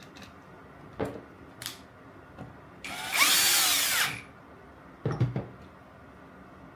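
A handheld electric power driver runs in one short burst of a little over a second, its motor pitch rising and falling, driving a screw during reassembly. A few short knocks of parts being handled come before and after it.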